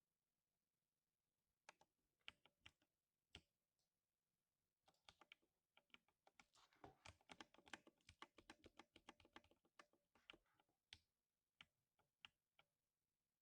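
Quiet typing on a 60% mechanical keyboard with lubed silver switches. A few separate keystrokes come first, then a quick run of keystrokes in the middle, thinning out to scattered taps near the end.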